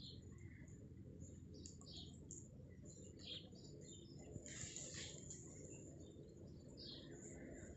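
Faint birds chirping: short, scattered calls a second or so apart over a quiet, steady low rumble.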